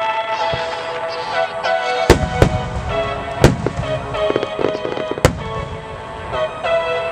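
Large aerial firework shells bursting: four sharp bangs spread over a few seconds, the first about two seconds in, each followed by a low rumble, over music with long held notes.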